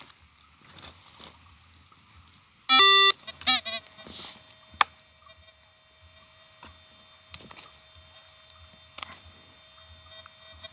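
A metal detector gives one loud, steady-pitched beep about three seconds in, signalling a target in the ground. Goats bleat a few times in the background.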